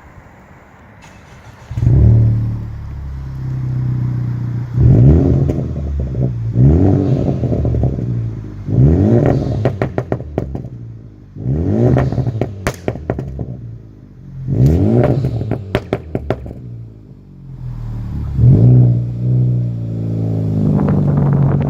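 Honda Civic Type R four-cylinder engine breathing through a custom stainless steel performance exhaust. It starts up about two seconds in and settles to idle, then is revved about six times, each rev rising and falling in pitch, with crackles and pops from the exhaust as the revs drop back.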